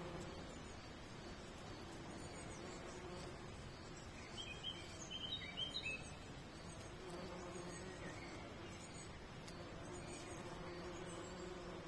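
Insects buzzing steadily around flowers, a low hum. About halfway through, a small bird chirps a quick run of short notes.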